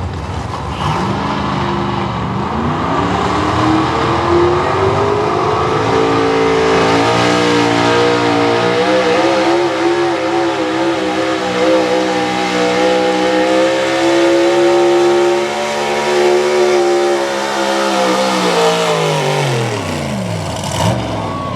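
Small-block V8 4x4 pulling truck at full throttle, pulling a weight sled: the engine's revs climb over the first several seconds, hold high and steady for about ten seconds under load, then drop away near the end as the throttle comes off.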